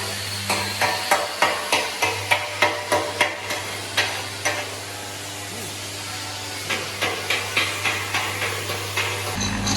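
Hammer tapping on metal in a quick, even rhythm of about three strikes a second, pausing for a couple of seconds midway, over a steady electrical hum.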